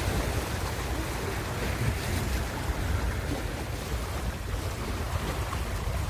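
Ocean surf: waves washing in as a steady hiss over a low rumble, with a slightly louder wash about two seconds in.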